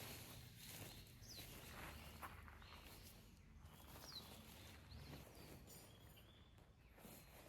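Near silence: faint outdoor ambience with light rustling and two short, high bird chirps, about a second in and again about four seconds in.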